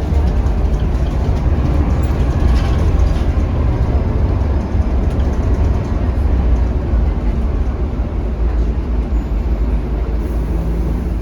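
Scania K310UB city bus on the move, heard from inside the cabin: a steady low diesel engine rumble with road noise.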